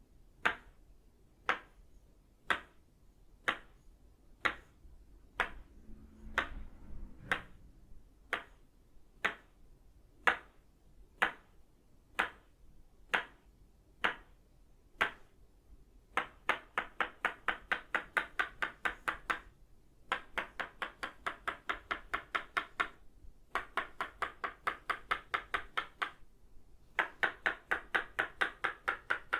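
Tok sen wooden mallet striking an itaúba wood stake, each blow giving a short, ringing wooden knock. The strikes come slowly at first, about one a second. After about 16 seconds they change to fast runs of about four or five strikes a second, with brief pauses between the runs.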